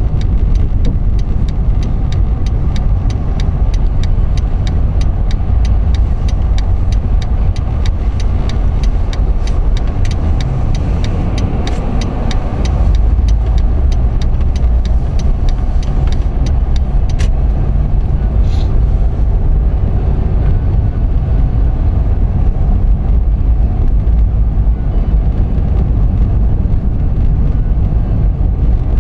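Vehicle driving, with a loud, steady low rumble of engine and road noise. Rapid, dense clicking runs over it for about the first half, then fades out.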